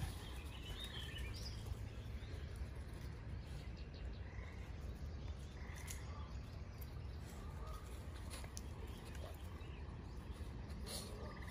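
Birds chirping and calling now and then over a steady low rumble, with a buzzy pulsed trill starting near the end.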